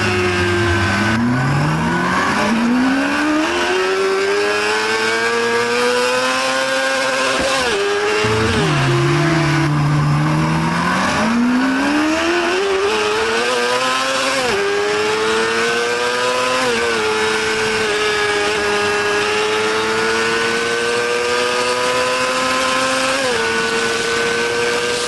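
Honda CBR600RR's inline-four engine accelerating hard through the gears, its pitch climbing with the revs and dropping back at each upshift. About a third of the way in the revs fall away sharply, then build up again through several more shifts.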